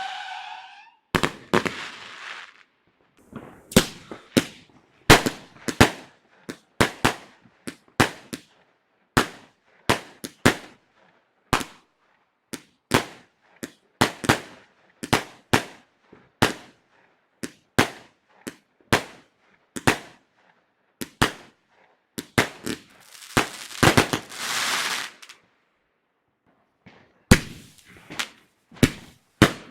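Consumer fireworks going off in a long, irregular string of sharp bangs, about one or two a second. About 23 s in there is a rush of noise lasting roughly two seconds, then a short pause before the bangs resume.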